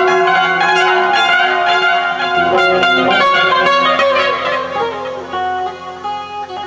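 Instrumental guitar music: plucked, ringing notes stacking into dense sustained chords, thinning out and getting quieter over the last two seconds.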